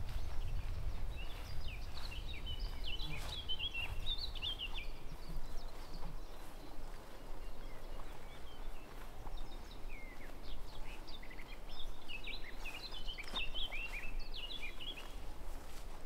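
A songbird singing two long phrases of quick, jumbled high notes, one near the start and one in the second half, over a low outdoor rumble with faint footsteps.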